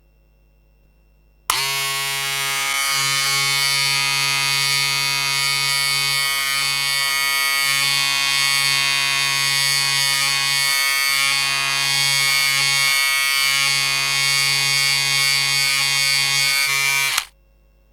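Electric hair clippers buzzing steadily for about fifteen seconds, cutting in and out abruptly, with brief dips in the hum as they bite into hair: a severe haircut.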